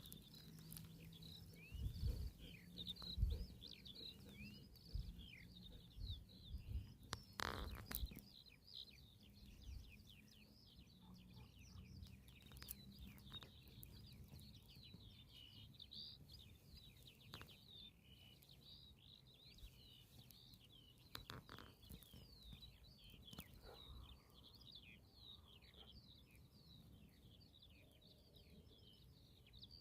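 Faint chorus of many small birds chirping continuously, with a few low thumps and sharp taps in the first eight seconds.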